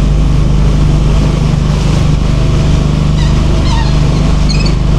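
Small hire boat's motor running steadily, a constant low hum with no change in speed.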